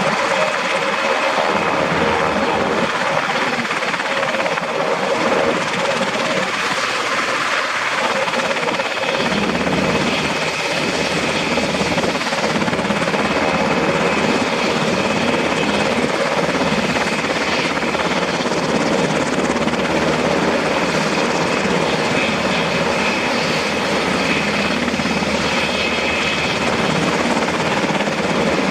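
UH-60 Black Hawk helicopter with its twin turboshaft engines and rotor running, a steady loud whine and rush. A deeper rumble joins about nine seconds in.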